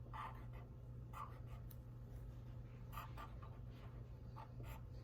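Drawing on paper by hand: short scratchy strokes of a drawing tool across the sheet, several in a row with small pauses between, over a faint steady low hum.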